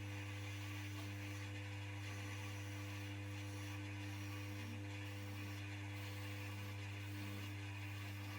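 Electric motor of a Coronet 1 wood lathe running with a steady, even hum.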